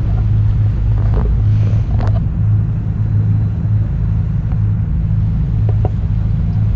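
Jet boat engine running at a steady speed, a loud, even low drone.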